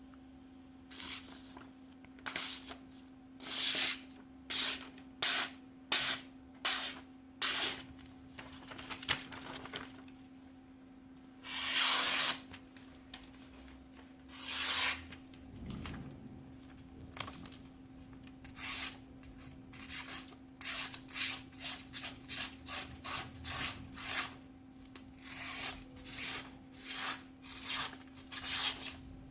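Chef's knife being sharpened: a long series of gritty scraping strokes of the blade, some spaced a second or so apart, others quick at about two a second, with two longer strokes near the middle. A steady low hum runs underneath.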